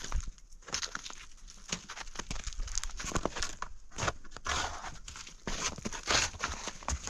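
Footsteps crunching in snow: irregular short crunches.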